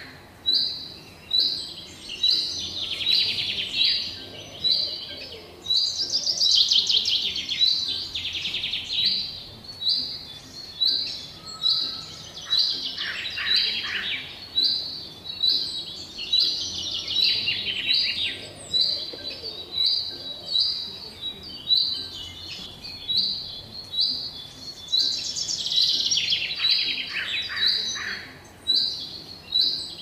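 Birds singing: one bird repeats a short, high chirp about every half second, while other birds break in three times with longer, rapid trilling songs.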